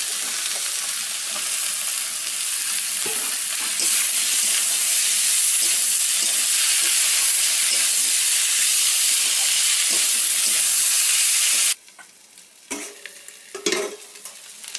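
Diced potatoes sizzling in hot oil and spice paste in a kadai as they are stirred and fried. The sizzle grows louder about four seconds in and stops abruptly near the end, leaving a few soft scrapes and knocks.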